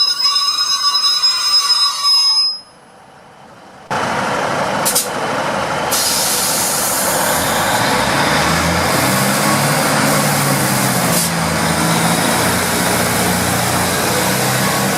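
Train wheels squealing on the rails for the first couple of seconds. After a brief lull, a passing diesel train runs loudly and steadily, its engine drone growing clearer from about eight seconds in.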